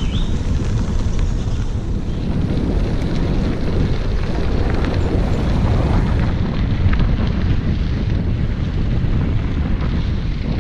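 Wind rushing over the microphone of a camera riding along on a moving bicycle: a steady, loud low rumble.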